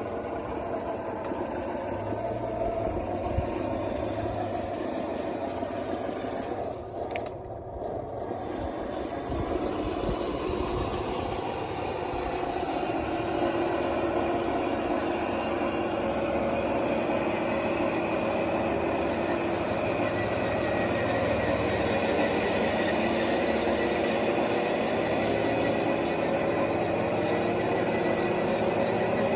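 Scale RC bulldozer (DXR2 with wide tracks) running and working dirt. Its drive motors and gearing whine steadily, getting a little louder about halfway through.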